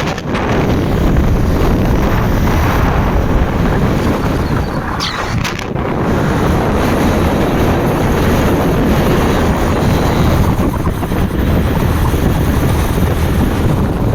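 Wind buffeting the microphone on a moving motorbike, a loud steady rush with road and engine noise underneath.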